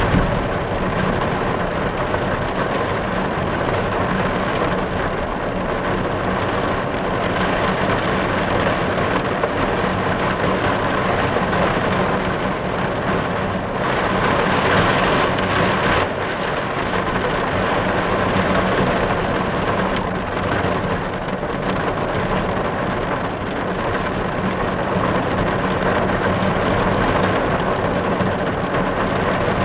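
Steady rain drumming on a car's roof and windows, heard from inside the car, briefly a little heavier about halfway through.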